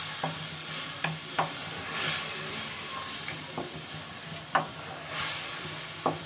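Sliced onions and ginger-garlic paste sizzling in hot oil in a metal wok as they are stirred with a spatula, a steady frying hiss broken by about six sharp scrapes and knocks of the spatula against the pan, the loudest about four and a half seconds in.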